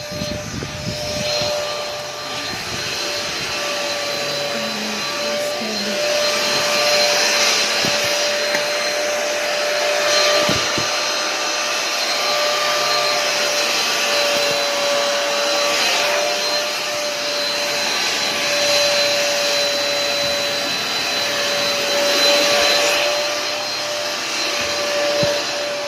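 A vacuum cleaner running steadily: a loud rush of air with a constant motor whine.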